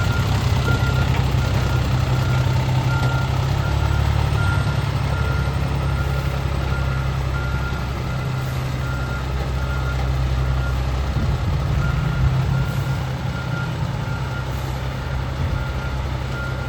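Fire truck's reversing alarm beeping steadily at an even pace while the truck's engine runs with a low, steady hum as it backs up.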